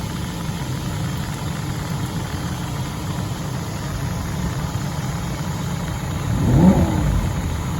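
Lamborghini Huracán LP580's 5.2-litre V10 idling steadily, with one quick blip of the throttle about six and a half seconds in, the revs rising and falling straight back to idle.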